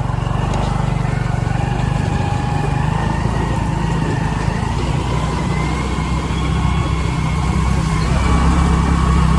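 A motor vehicle's engine running steadily, with a faint high whine above the low rumble.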